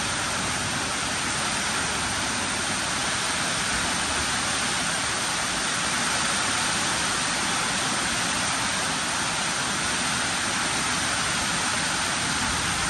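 Heavy rain pouring down steadily in a strong storm, an even, unbroken rush of water.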